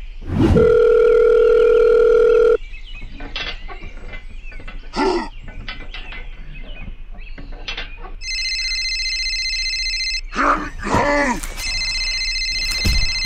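Cartoon-style sound effects: a steady electronic beep lasting about two seconds at the start, then a telephone ringtone that rings twice, with short vocal exclamations between.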